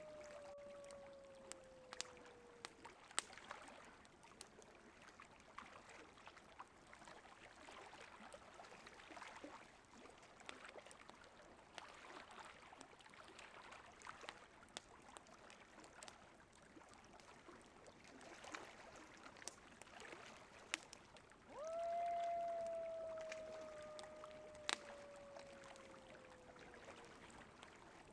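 Faint wood campfire crackling with scattered sharp pops, over a soft steady rush of river water. A coyote howl trails off at the very start, and about three-quarters of the way through another single howl starts abruptly and slides slowly down in pitch for about three seconds.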